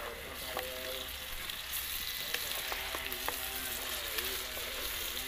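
Sliced onions sizzling steadily in hot oil in an open pan while being stirred with a wooden spatula. They are frying toward brown, the base for a curry. A few light clicks sound now and then through the sizzle.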